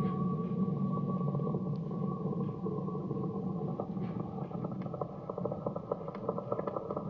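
Muffled, made-up 'cave' sound effect: a steady low drone with several held tones at once, and crackling clicks that grow denser in the second half.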